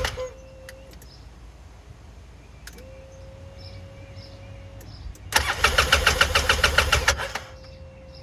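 A Polaris RZR 800 S's electric starter cranks its twin-cylinder engine in a burst of rapid, even pulses for about two seconds, and the engine does not catch. A faint steady whine comes and goes around the attempt. The no-start comes from a spark fault that the owner traces to a failing ignition switch, which makes the display cut out during cranking.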